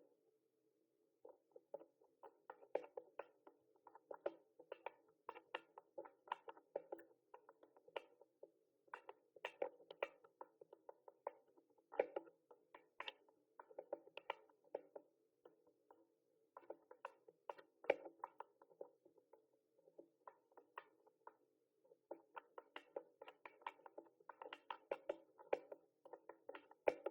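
Mechanical keyboard being typed on, keys clacking in quick runs of many strokes a second with short pauses between bursts, faint.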